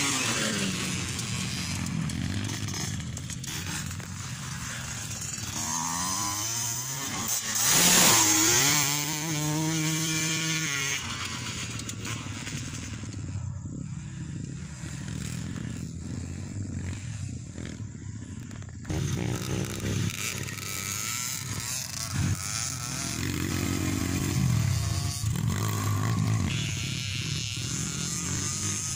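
Motocross bikes running on a dirt track, their engines revving up and down as they ride. One bike is loudest and closest about eight seconds in.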